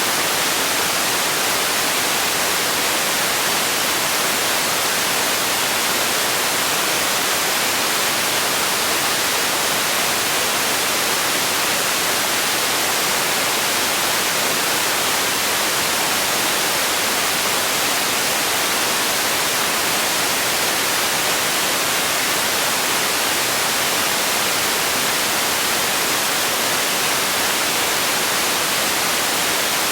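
Steady, unchanging white-type noise, a continuous hiss weighted toward the high frequencies, with no events or variation.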